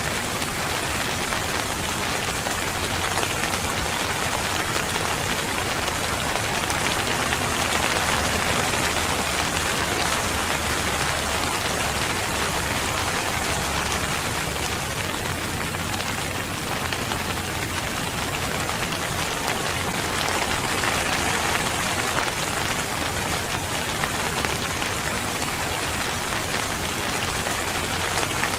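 Steady rain falling, a dense, even hiss of raindrops with no pauses or breaks.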